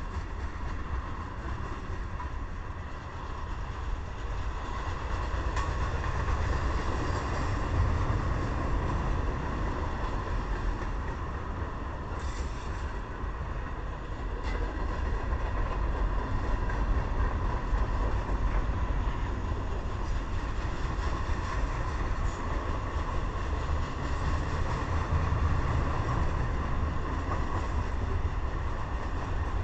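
Freight train cars rolling past on the track: a steady low rumble of steel wheels on rail, with a faint steady ringing tone running through it.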